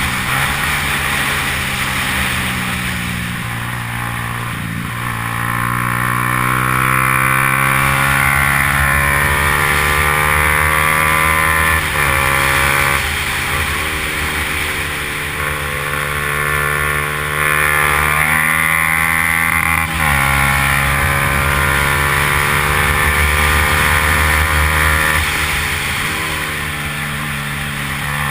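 Yamaha R15's 150 cc single-cylinder four-stroke engine under hard acceleration during a race. Its note climbs steadily in pitch and drops sharply at each gear change, about three or four times.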